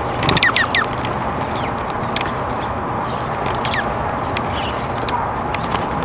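Small songbirds chirping: a quick run of four or five downward-sweeping chirps near the start, then scattered short chirps and a brief high note about three seconds in, over a steady low rushing background.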